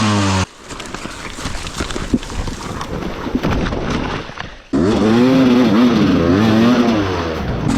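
Dirt bike engine running under changing throttle, its pitch rising and falling. About half a second in the sound cuts abruptly to a quieter stretch of rough noise and scattered knocks. Just before five seconds the engine cuts back in loud, revving up and down.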